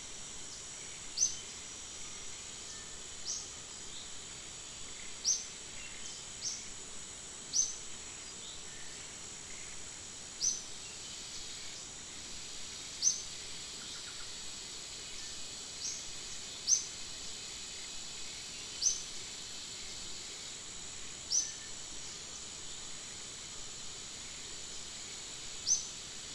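Steady rain falling on forest foliage, with a constant high insect drone and a short, sharp, high chirp that repeats every couple of seconds, about a dozen times.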